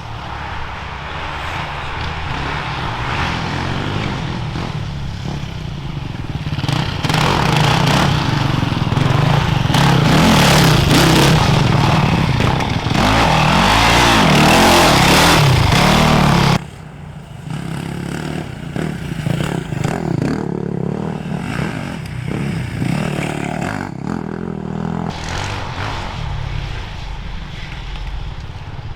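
Enduro motorcycle engines revving as a bike comes up close, growing louder with rising and falling revs to a peak a little past halfway, then cut off suddenly; after that, quieter off-road bike engines further away.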